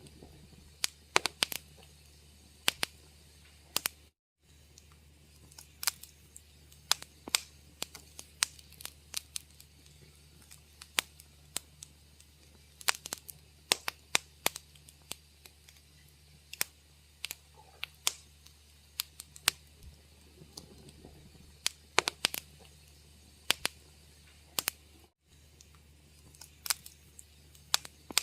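Wood fire crackling in a fireplace: irregular sharp pops and snaps, some close together and some spaced out, over a faint low hum. The sound cuts out for a split second twice, about 4 seconds in and near 25 seconds.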